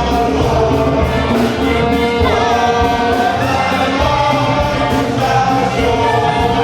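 A choir singing a gospel hymn over instrumental backing with a steady beat.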